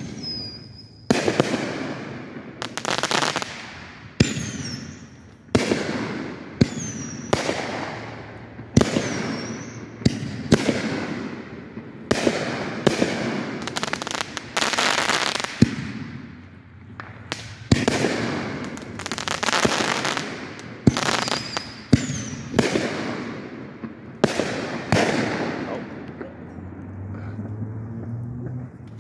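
Aerial fireworks bursting in quick succession, each sharp bang followed by a fading crackle, with a few short whistles mixed in. The bursts thin out and quieten near the end.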